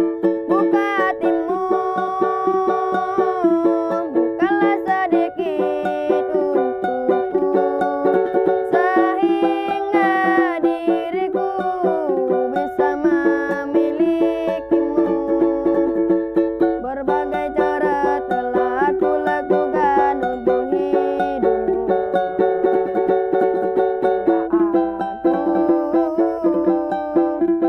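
A child singing a melody that slides and bends in pitch, over steady strumming on a small plucked string instrument.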